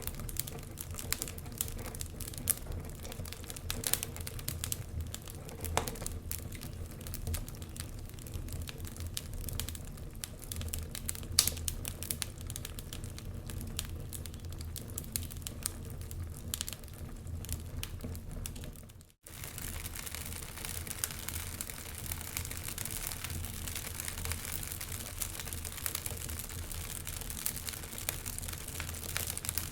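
Wood fire crackling, with frequent sharp pops and snaps over a steady hiss and low rumble. The sound cuts out for a split second about two-thirds through, then the crackling resumes with fewer sharp pops.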